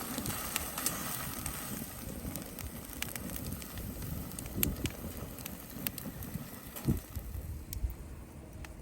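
Wood fire crackling, with scattered sharp pops over a low steady rumble and a soft hiss that fades about two-thirds of the way through.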